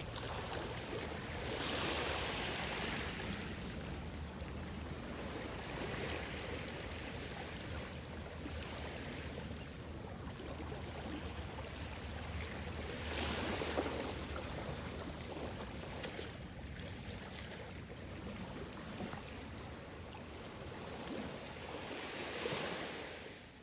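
Gentle ocean waves washing onto the shore. They swell three times, about ten seconds apart, and fade out near the end.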